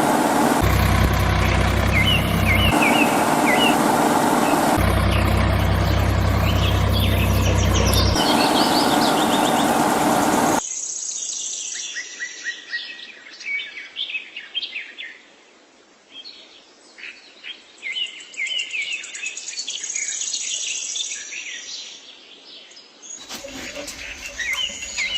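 Small motor running with a steady hum that deepens twice for a few seconds, while birds chirp. About ten seconds in it cuts off suddenly, leaving many short bird chirps over a quiet background.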